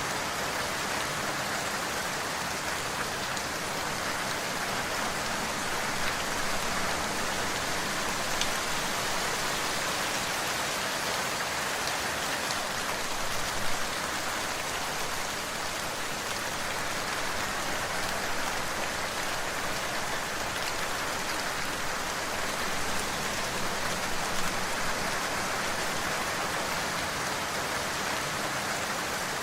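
Steady rain falling, a dense even hiss with a few individual drops standing out.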